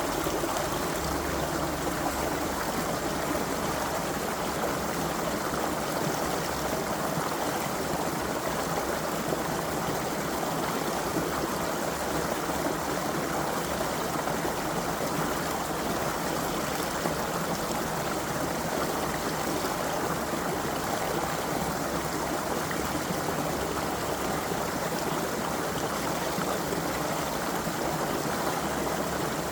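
Creek water flowing over stones, a steady babbling and gurgling rush.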